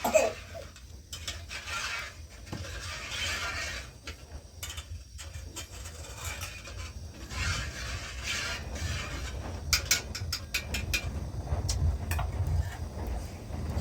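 Objects being handled: scattered clicks and clinks with rustling, over a low rumble.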